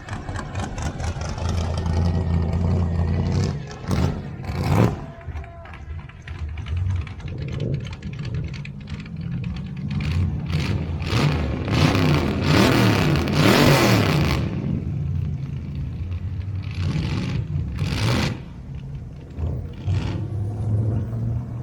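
Car engine running, swelling to a louder surge of noise midway, with several sharp bangs or rustles along the way.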